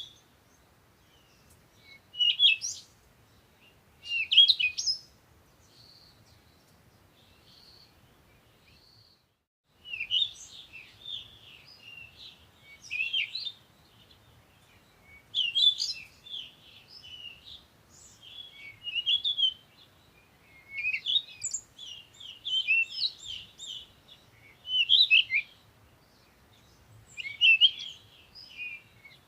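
Several songbirds singing and chirping in a dawn chorus, with short high chirps and warbled phrases. Calls are sparse at first, then after a brief silent gap about nine seconds in they become busy and overlapping.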